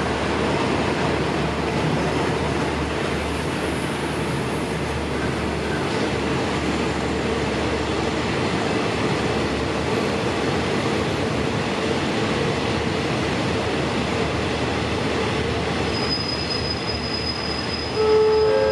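Passenger train hauled by a diesel locomotive running through the station: a steady rail rumble with a faint high whine from the wheels. Near the end, the clean tones of a station announcement chime begin.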